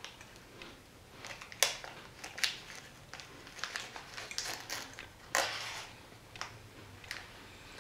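Close-up crunching and chewing of a small chocolate sandwich cookie: irregular crisp crunches and clicks, with a few louder crunches spread through.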